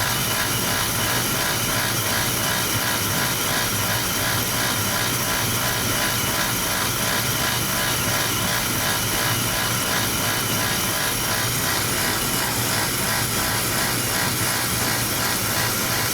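Oil furnace with a Beckett oil burner running: a steady mechanical drone with a faint regular pulsing.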